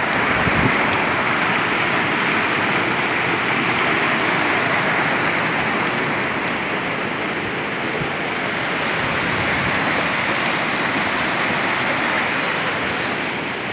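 Steady rush of fast-flowing water from a mountain stream.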